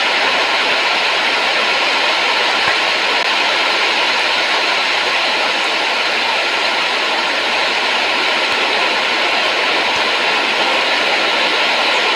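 Steady, unchanging rushing noise, even and hiss-like, with no distinct events.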